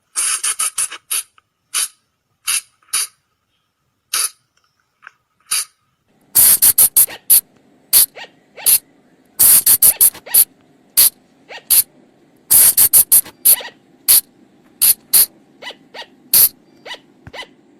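Colugo (flying lemur) calls: repeated short, sharp, shrill cries, some single and some in quick runs of three or four. A faint low hum joins about six seconds in.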